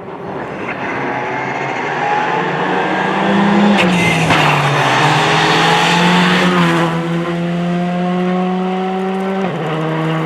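Rally car at full throttle on a special stage, its engine note climbing through the revs and dropping sharply with upshifts about four seconds in and again near the end. It is loudest in the middle as it comes past.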